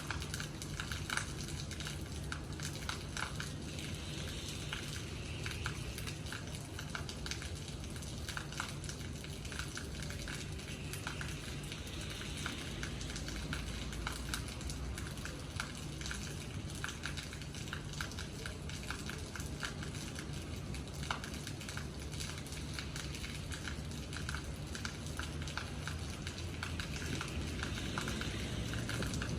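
Rain falling, with many separate drops landing in quick, uneven sharp ticks on a hard surface, over a steady low hum.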